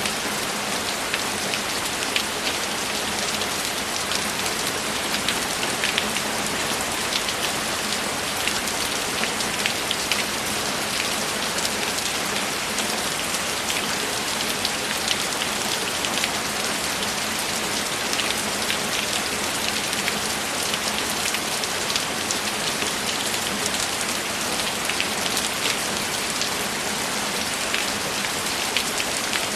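Steady rainfall: a dense, even hiss with many individual drops ticking throughout.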